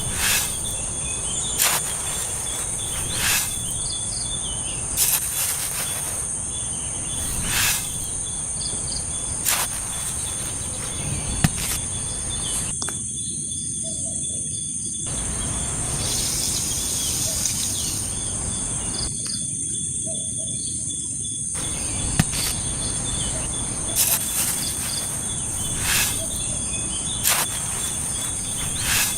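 Outdoor insect chorus: a steady high-pitched buzzing drone, with short chirps repeating every second and a half to two seconds and a low background rumble. Two sharp clicks are heard, one a little before the middle and one later on.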